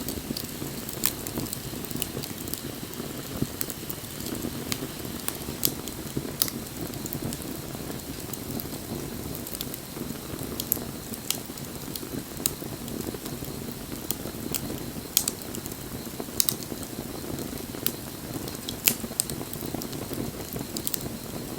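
Wood bonfire burning: a steady low rush of flame with irregular sharp crackles and pops from the burning wood, roughly one a second.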